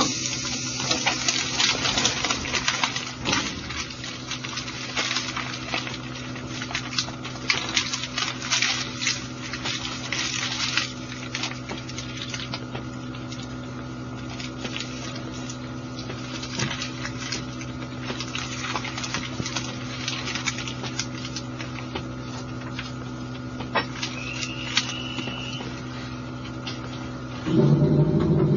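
Inside a standing electric train car: a steady hum from the car's equipment, with irregular crackling and hiss for the first ten seconds or so. Near the end a louder low rumble sets in as the train starts to pull away.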